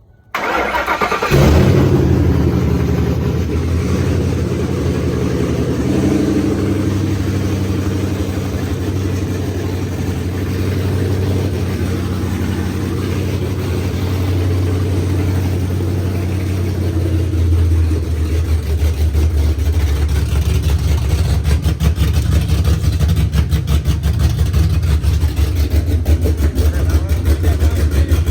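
Ford F-150 pickup's engine cranking and catching, flaring up as it fires, then running steadily with some pitch changes. Late on, the engine note turns louder and pulsing.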